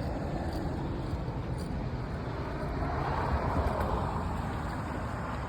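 Vehicle noise: a steady low rumble with a rushing hiss that swells slightly about three to four seconds in.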